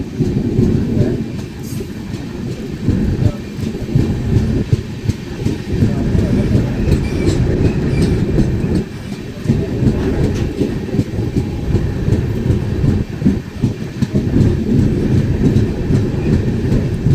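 Train running, a steady low noise with the wheels clattering over the rails.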